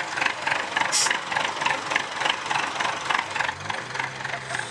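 Truck engine idling with a steady rhythmic knocking clatter, about five or six knocks a second. A short hiss comes about a second in.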